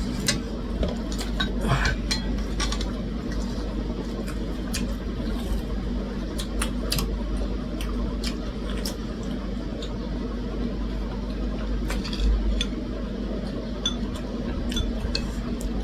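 Cutlery clinking against plates and bowls while eating, a scatter of short light clinks throughout over a steady low hum.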